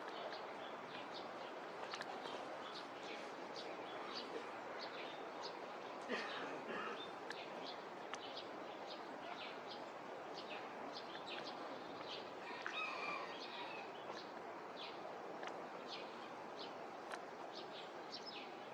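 Small birds chirping, many short high chirps scattered throughout, over a steady background of outdoor noise.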